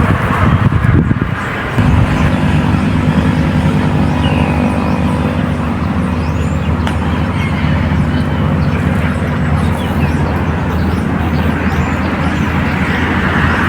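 An engine running steadily at an unchanging pitch, coming in about two seconds in.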